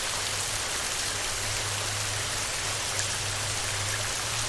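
Steady heavy rain on a tin roof: an even hiss with scattered drop ticks, over a faint low hum.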